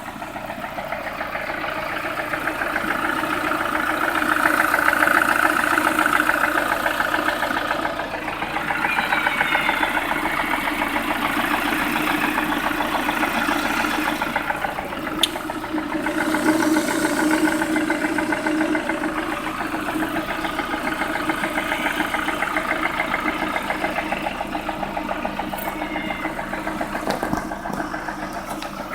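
Lada Priora engine idling warm with a clearly audible knock, a fine rapid pulsing running through the engine sound. The owner cannot tell whether it is a piston knock or the hydraulic lash adjusters.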